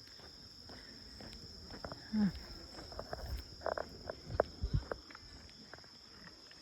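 Steady high-pitched insect chorus, crickets or similar, with footsteps along a trail and a few louder brief sounds in the middle.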